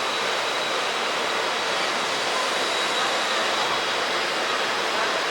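Steady rushing noise of a passenger train running at speed, the wheels, wind and coach body of an ICF coach heard from inside, with a faint steady whine.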